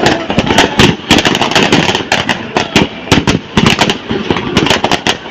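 A loud, rapid, irregular string of sharp cracks and pops, several a second, from the burning of a very large bonfire.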